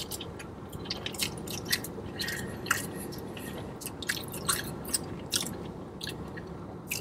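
A person chewing a mouthful of chicken burrito after biting into it, with many small irregular wet mouth clicks and smacks.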